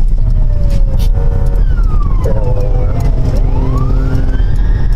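A police siren wailing, its pitch falling slowly and then rising again near the end, over loud vehicle and road rumble.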